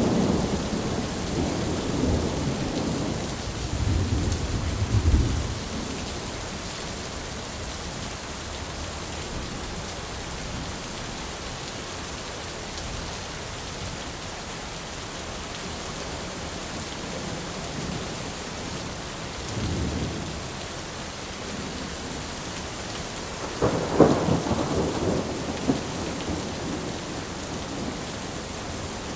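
Thunderstorm: steady rain with rolling thunder, rumbling through the first five seconds, a brief rumble about twenty seconds in, and the loudest clap with a long rumble about twenty-four seconds in.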